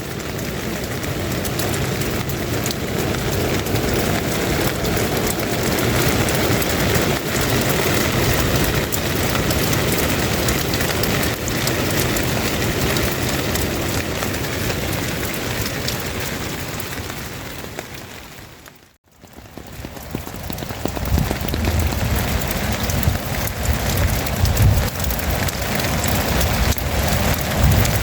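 Steady rain falling hard. It drops out abruptly about two-thirds of the way through, then comes back with a low rumbling under it.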